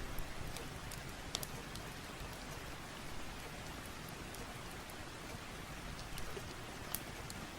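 Steady rain falling, with a few sharp pops of a crackling wood fire scattered through it.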